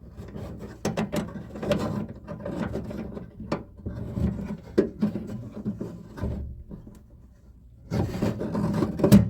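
Irregular metal clicks, scrapes and rattles of door handle and lock hardware being worked into a car door by hand. The clatter eases off for a moment, then comes back thicker and louder near the end.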